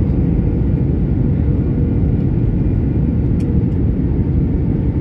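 Airliner on landing, heard from inside the cabin: a steady, deep rumble of engines and airflow with a faint steady hum above it.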